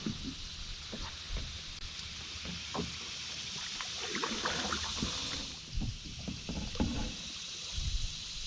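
Canoe on a river: a paddle dipping and water splashing and dripping, with a few low knocks against the hull, over a steady high hiss that eases a little past halfway.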